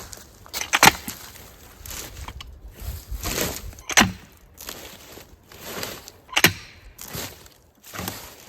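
A series of irregular knocks, crunches and rustles from work on logs and brush, with three sharper knocks about one, four and six and a half seconds in.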